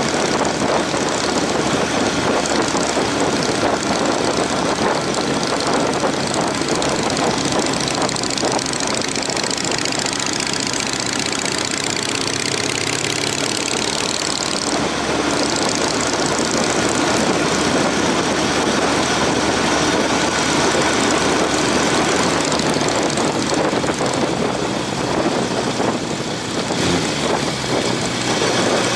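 Honda CB750 motorcycle engine running steadily under way, mixed with a loud, even rush of wind and road noise.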